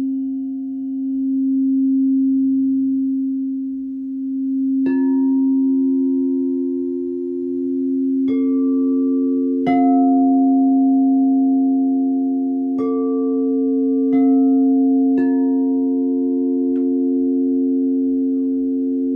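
Singing bowl sounding a steady low tone that swells and fades in a slow pulse, with about seven bright metallic notes struck one by one over it, each left to ring on and layer into a sustained chord.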